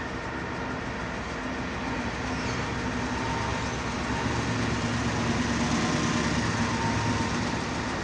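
Steady mechanical running noise, like a vehicle or machine engine, growing a little louder from about two seconds in.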